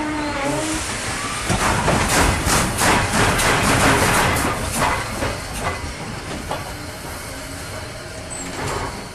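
Train going by: a rapid clatter with hiss, about four or five beats a second, that builds to its loudest two to four seconds in and then dies away.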